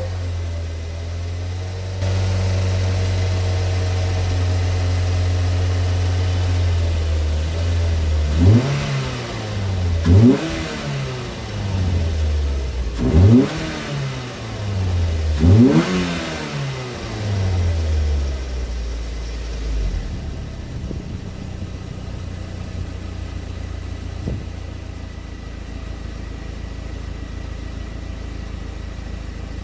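Ford Fiesta petrol engine held at a steady raised speed, then revved sharply four times, each rev rising and dropping quickly, before settling back to a steady idle about two-thirds of the way in. It is being run to circulate K-Seal head gasket sealant; the owner suspects a blown head gasket.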